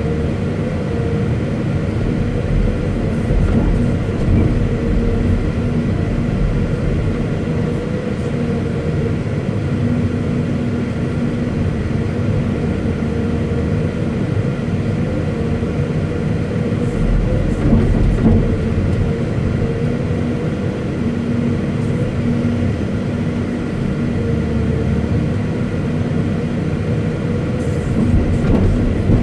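Caterpillar 329E hydraulic excavator's diesel engine running steadily with a low rumble and a steady drone, its pitch wavering slightly.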